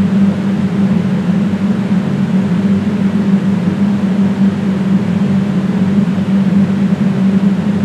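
Loud, steady mechanical hum with a strong low drone and a hiss over it, unchanging throughout.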